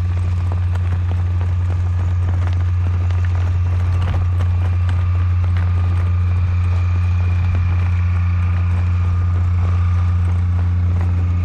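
A driving horse's hooves clip-clopping under a steady, loud low rumble of wind on the microphone.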